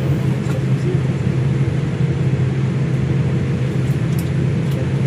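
Steady, loud low rumble of an airliner's cabin noise, engines and air flow droning evenly, with a few faint ticks.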